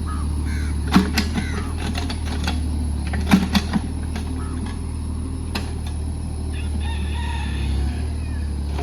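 JCB JS30 Plus mini excavator's engine running steadily, with sharp knocks about a second in and a cluster of knocks a little after three seconds. A rooster crows near the end.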